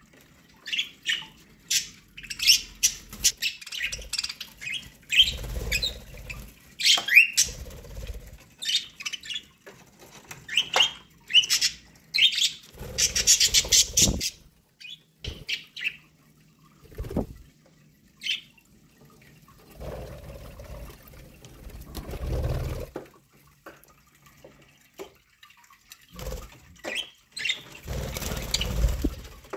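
Budgerigars chirping and squawking in quick, scattered calls, with several short spells of low rustling and fluttering, about four of them.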